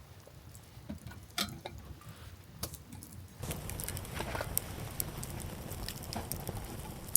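Clinks and clatter of metal cooking gear, then from about three and a half seconds in a steady sizzle dotted with crackles, as of food frying in a freshly oil-seasoned steel pan over the fire.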